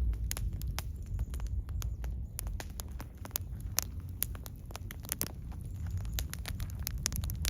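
Wood fire crackling, with many irregular sharp pops and snaps over a steady low rumble of burning.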